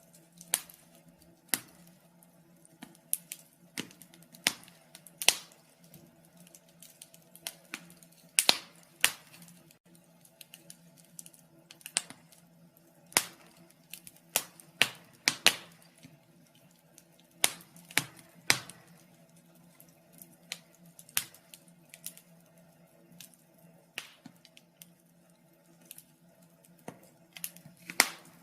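Wood fire crackling in a fireplace: irregular sharp snaps and pops, some close together and some seconds apart, over a faint steady hum.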